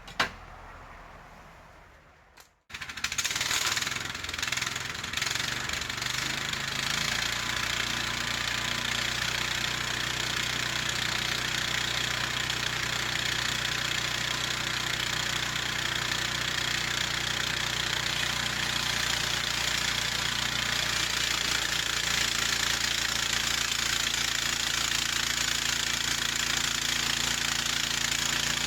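Gasoline engine of a Harbor Freight bandsaw sawmill starting up about three seconds in after a sharp knock, then running steadily, settling into an even pitch after a few seconds.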